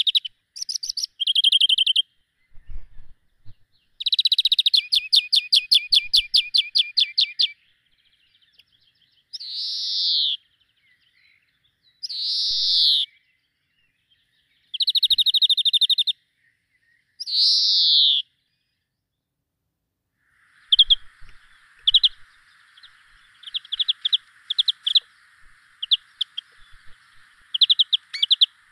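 Songbirds singing: separate high phrases of fast trills and descending whistled notes with short pauses between them. About two-thirds of the way through, the song gives way to quick repeated chirps over a steady hiss.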